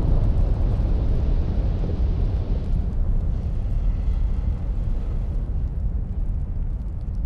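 Anak Krakatau volcano erupting: a loud, deep, continuous rumble from the Strombolian eruption as the ash column rises, slowly easing off.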